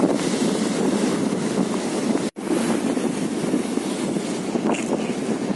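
Wind buffeting the microphone over the noise of a fishing boat at sea, a dense steady rush. It drops out completely for a split second a little over two seconds in.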